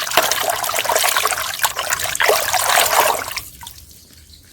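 Water splashing and trickling as a small toy is rinsed clean of sand, fading out about three and a half seconds in.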